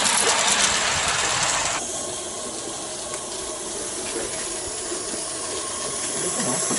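Small live-steam garden-scale model locomotive hissing steam, with faint exhaust beats. About two seconds in the hiss drops suddenly to a quieter steady hiss with light mechanical running sounds.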